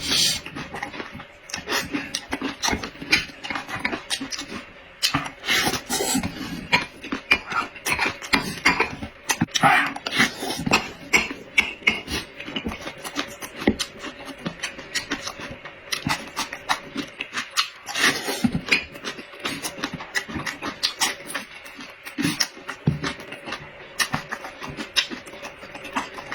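Close-miked eating sounds: steady, irregular chewing, lip-smacking and slurping of food.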